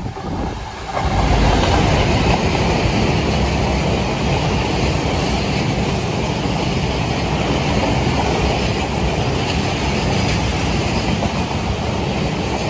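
A Class 66 diesel freight locomotive passes through at speed about a second in. A long rake of box wagons follows, rolling steadily past on the rails with a continuous rumble and wheel noise.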